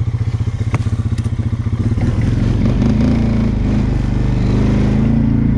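Engine of a 2014 TGB Blade 425 cc quad bike chugging at low revs, then opening up about two seconds in to a steady, higher-revving run, loud.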